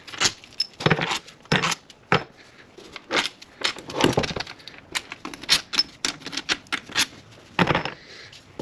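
Metal hand tools clicking and clinking as bolts are worked out of an intake manifold, with irregular sharp clicks and knocks a few times a second.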